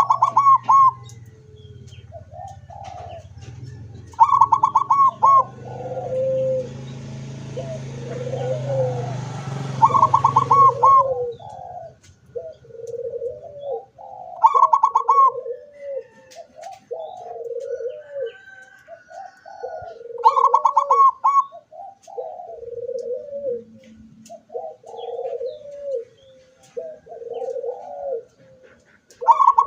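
Zebra dove (perkutut) singing: repeated song phrases, each opening with a rapid stuttering run of higher notes and followed by a string of lower coos, about one a second. A low hum and hiss run under the song for roughly the first ten seconds.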